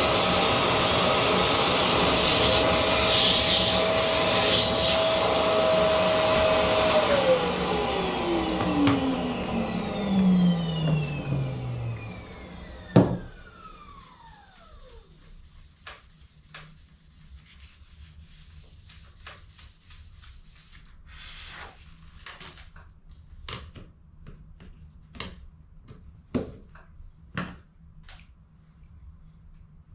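An electric vacuum or blower motor runs with a steady whine, is switched off about a quarter of the way in, and spins down with a falling whine over several seconds. After a sharp click, only light clicks and knocks of handling follow.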